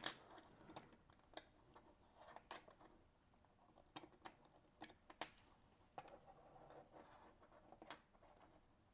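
Faint, scattered clicks and light taps of 3D-printed plastic parts being handled as a disc is fitted into a disc detainer lock model, with some soft rubbing a little past the middle.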